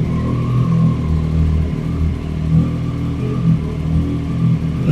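Triumph Street Triple's three-cylinder engine idling steadily, with slight wavers in its note.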